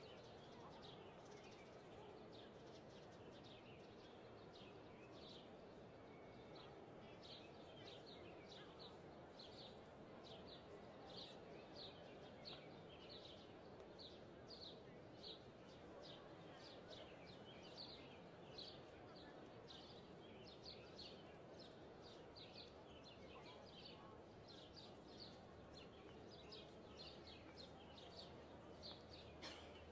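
Small birds chirping, short high calls repeated over and over, more than once a second from a few seconds in, over a faint steady background hiss of outdoor ambience.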